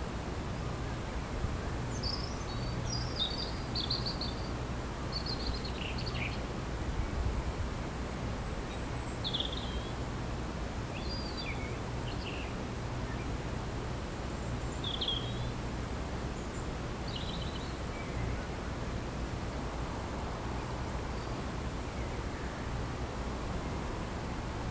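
Small songbirds calling: short, scattered chirps and brief twittering phrases every second or two, thinning out in the last third, over a steady low background hum and hiss.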